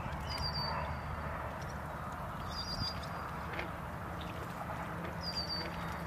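Outdoor ambience: a steady background rumble, with a bird chirping three times in short high trills a couple of seconds apart. A few faint knocks are heard, which could be hoof or footsteps.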